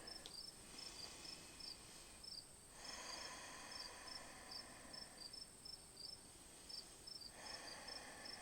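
Crickets chirping faintly in grass: short paired chirps repeating two or three times a second, over a steady high-pitched buzz.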